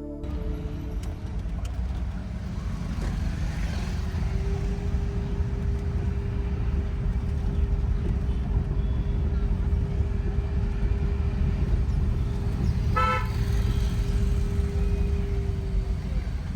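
Car driving on a mountain road, with a steady low rumble of engine and road noise. A steady tone comes in about four seconds in and holds until near the end. A short horn toot sounds about thirteen seconds in.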